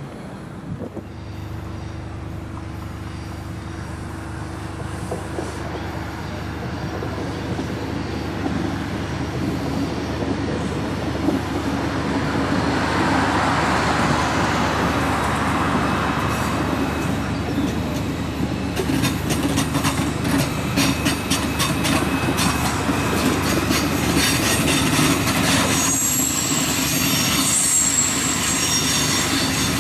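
ICE high-speed electric train passing over a junction, its rumble building steadily louder. From about two-thirds of the way through, its wheels clatter rapidly over the points and rail joints, and a thin high wheel squeal comes in near the end.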